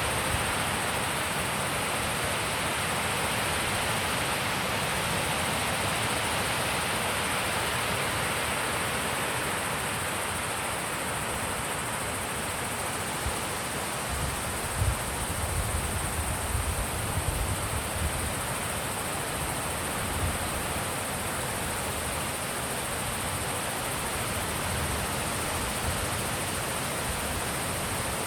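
Wind blowing steadily, a constant rushing hiss, with gusts buffeting the microphone in low rumbles for several seconds about halfway through.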